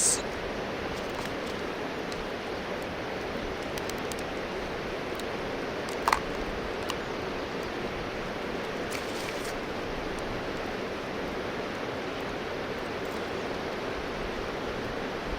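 Steady outdoor rushing noise, with a sharp click about six seconds in.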